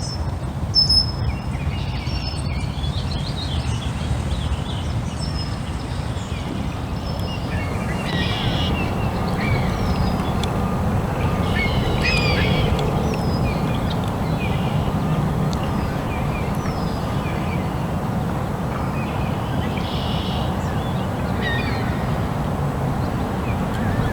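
Birds calling repeatedly with short chirps and falling notes, in flurries, over a steady low background rumble.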